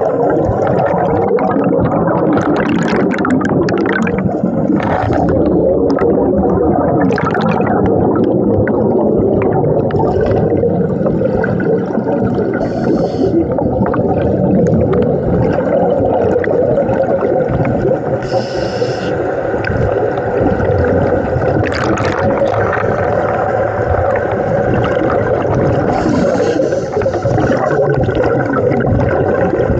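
Muffled underwater rumble from a scuba dive, with gurgling bursts of divers' exhaled regulator bubbles a few times.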